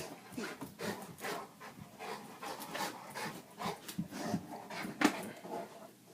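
A dog pawing and biting at a dropped Master Lock padlock: irregular scratching and clicking of claws and teeth on the metal lock, with a sharper knock about five seconds in.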